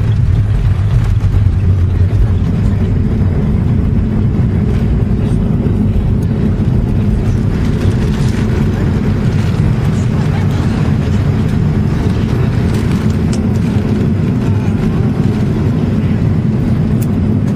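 Steady low rumble of a Boeing 757-200 airliner heard from inside the passenger cabin, its engines and airframe running at an even level.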